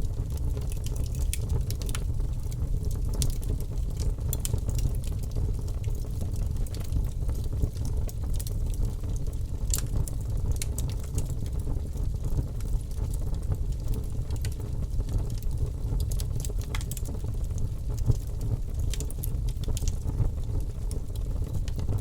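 Wood logs burning in a fireplace: a steady low rumble of the flames with irregular crackles and a few sharper pops.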